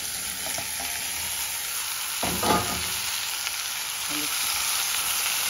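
Chopped maxixe (West Indian gherkin) sizzling as it fries in hot oil and seasoning in a pan, being stirred. There is one brief, louder scrape about two seconds in.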